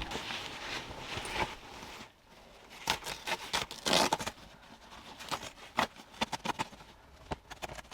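Irregular scraping, rustling and tearing sounds from hands-on work, with scattered sharp clicks and knocks and a louder scrape about four seconds in.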